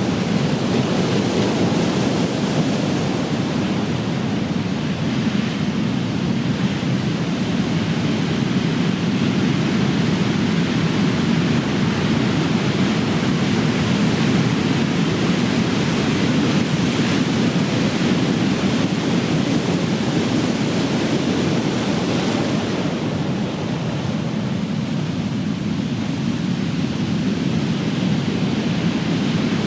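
Big ocean waves breaking: a continuous rush of surf, with a brighter hiss of breaking water about three quarters of the way through.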